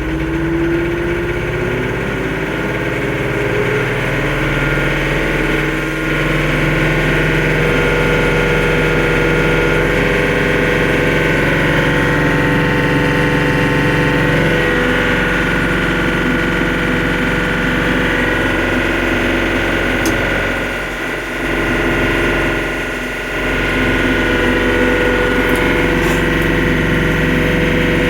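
TYM 394HC compact tractor's diesel engine finishing a rise in revs about a second in, then running steadily at raised RPM, the speed brought up into the green zone before the PTO is engaged. The revs dip briefly twice near the end.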